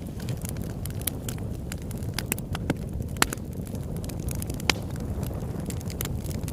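Campfire crackling: irregular sharp pops and snaps, the loudest about three and four and a half seconds in, over a low steady rumble.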